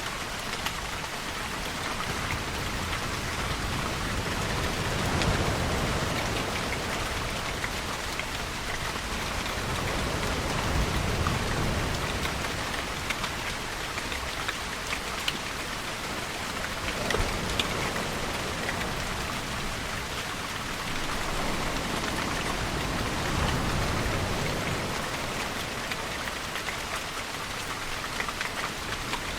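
Steady heavy rainfall with scattered individual drops, over low swells that rise and fall several times.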